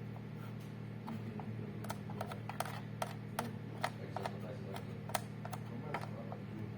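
A run of about a dozen sharp, irregularly spaced clicks and taps over a steady low hum.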